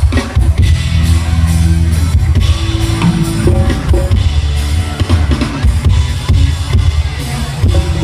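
Live rock band playing loud through a PA sound system: drum kit and bass guitar come in suddenly at the start, with guitar over them.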